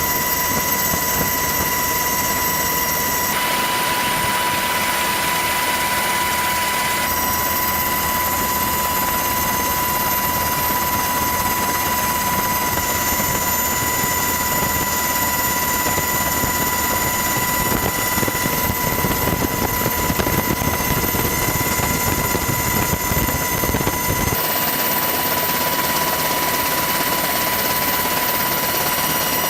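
Steady aircraft engine noise, a constant rush with a high, steady whine running through it; the character of the noise changes abruptly a few times.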